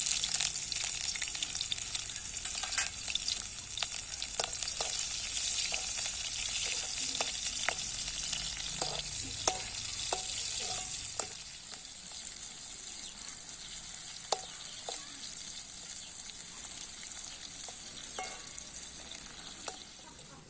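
Onions and chillies hitting hot oil in a pan, sizzling at once and frying, with a spoon clicking and scraping against the pan as they are stirred. The sizzle eases a little about halfway through.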